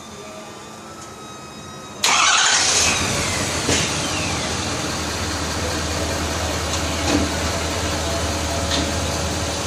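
Car engine started right after an oil change with fresh oil and a new filter: it catches suddenly about two seconds in and then idles steadily, with a few light clicks.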